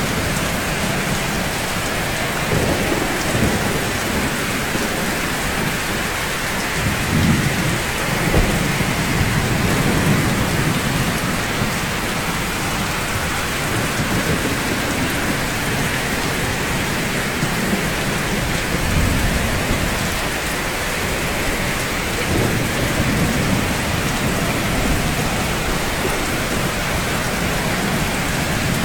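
Steady rain falling on rooftops, a dense, even hiss. Low rumbles rise and fade now and then, the strongest about seven to ten seconds in.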